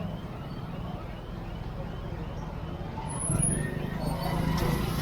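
Busy street traffic heard from a moving motorcycle: a steady low engine running under the noise of other vehicles, with faint voices, and a brief swell in the traffic noise about three and a half seconds in.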